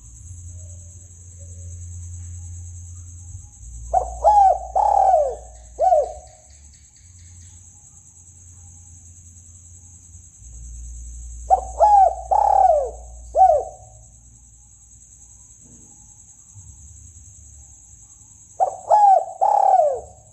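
Spotted dove (tekukur) cooing song played as a hunting lure call: three phrases of three or four coos each, about seven seconds apart, over a steady high-pitched hiss.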